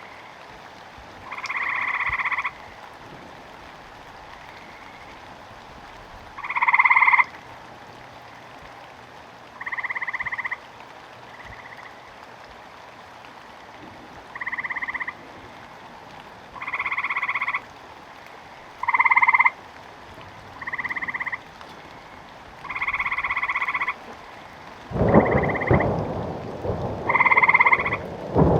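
A frog croaking again and again, each call about half a second to a second long and coming every two to three seconds, over a steady hiss of rain. Near the end, thunder rumbles in loudly.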